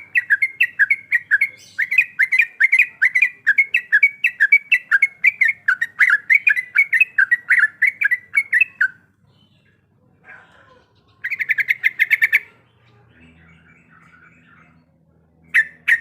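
Sooty-headed bulbul (trucuk) singing a fast run of repeated notes, about four a second, that breaks off about nine seconds in. A shorter rapid burst comes a couple of seconds later, then a few soft scattered chirps.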